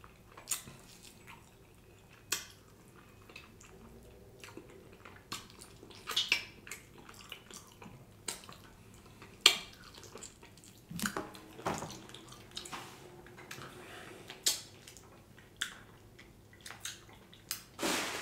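Close-miked eating mouth sounds: wet chewing, lip smacks and sharp sticky clicks while biting meat off a barbecue rib held in the hands.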